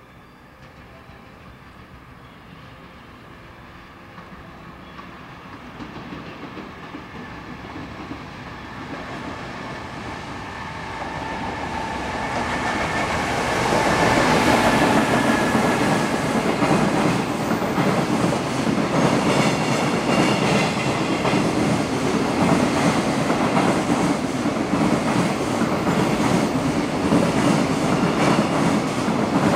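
An EF210 electric locomotive's freight train approaches, growing steadily louder for about 14 seconds. It then runs past close by, its wheels clattering steadily over the rail joints.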